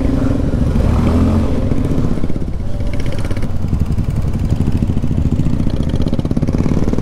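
Bajaj Pulsar F250's single-cylinder engine running steadily as the motorcycle rides along, heard from the rider's seat.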